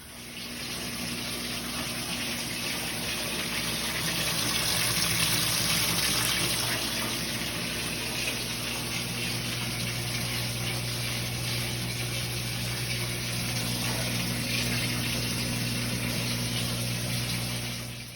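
Kenmore washing machine filling with warm water through its hose from the sink faucet: a steady rushing of water into the tub with a low hum under it. It starts at once and cuts off abruptly at the end.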